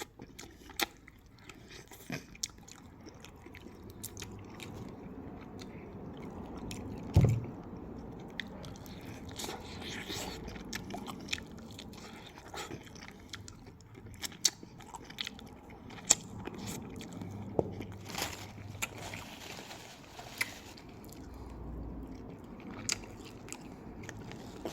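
A person chewing and biting crispy chicken wings, with irregular crunches and smacking clicks and a louder knock about seven seconds in.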